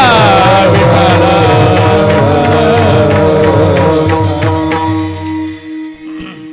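Warkari kirtan accompaniment: an ornamented melodic line over a steady drone, with a regular beat of percussion, that fades out about five and a half seconds in, leaving only the held drone note.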